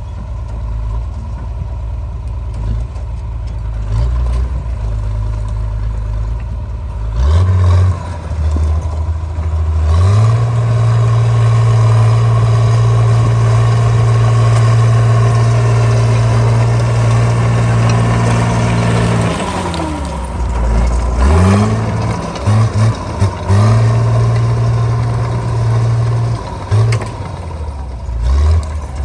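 Caterpillar D3C bulldozer's diesel engine working: it revs up about seven seconds in and holds high and steady for roughly ten seconds, then drops and comes back in several quick rises and falls toward the end.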